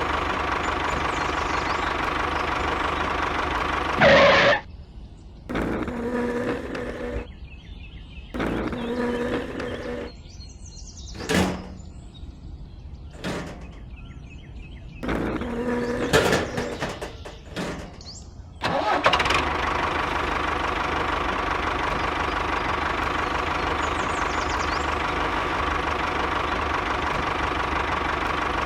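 A small engine running steadily. About four seconds in it breaks off into a stretch of short, separate bursts with quieter gaps between them. Past the middle the steady running resumes.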